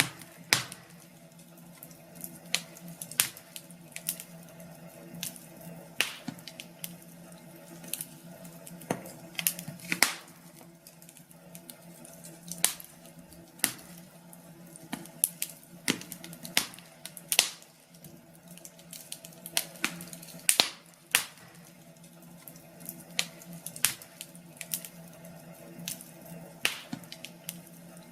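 Wood fire crackling in a fireplace: irregular sharp pops and snaps, one or two a second and of uneven loudness, over a faint steady hum.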